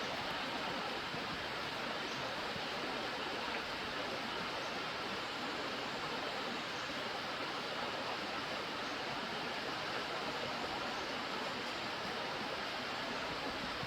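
Steady rush of flowing water, an even hiss-like roar that holds constant throughout.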